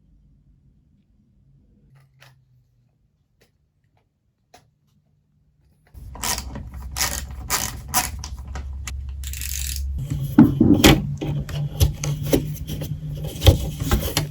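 Near silence for about six seconds, then a run of metallic clicking, ratcheting and scraping, like hand tools and hardware being worked during furniture dismantling. A steady low hum joins about ten seconds in.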